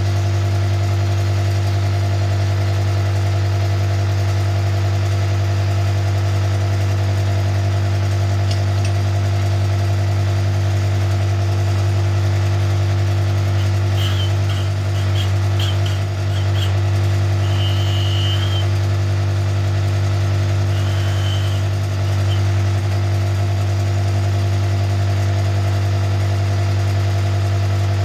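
Connecting-rod cap cutter's motor running with a steady, loud hum while rod caps and rod big ends are cut. Short high-pitched squeaks come and go about halfway through.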